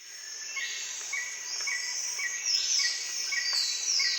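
Tropical park ambience of insects and birds: a steady high insect drone, a short call repeating about twice a second, and louder descending bird whistles in the second half.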